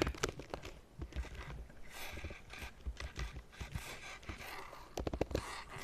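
Irregular clicks and taps of computer typing and mouse work, with a quick run of several clicks about five seconds in.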